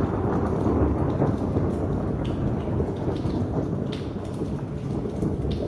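Heavy rain pouring steadily, a dense deep wash with scattered sharp drop ticks on top.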